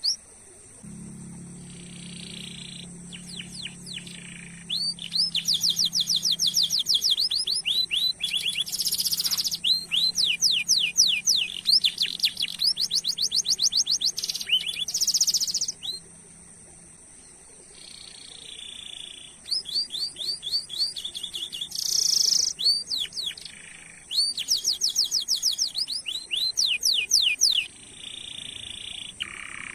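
Domestic canary singing long rolling trills, each a fast run of repeated chirps, broken by short pauses.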